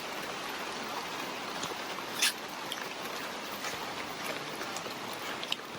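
Steady hiss of wet rainforest ambience with scattered light ticks and one sharper click about two seconds in.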